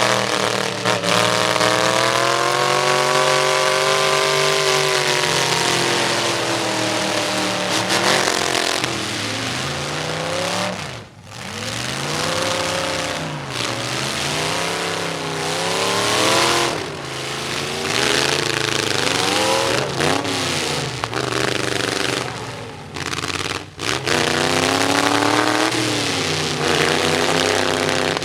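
Demolition derby trucks' engines revving hard, their pitch rising and falling over and over as they accelerate and back off, with brief lulls twice.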